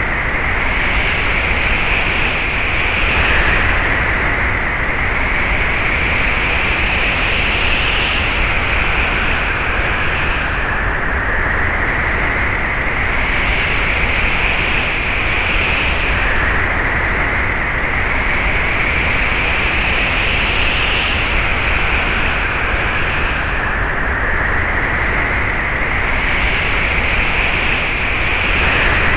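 Wind sound effect: a steady rushing wind with a whistling tone that slowly climbs in pitch and falls back every five seconds or so, like recurring gusts.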